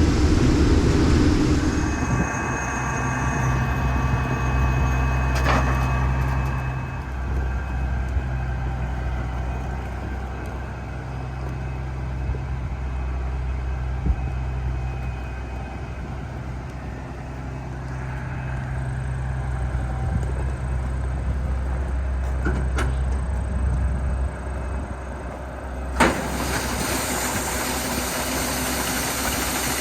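Case IH 2388 combine running steadily during corn harvest: a low, even engine hum with machinery noise over it. About 26 seconds in, the sound abruptly turns brighter and hissier.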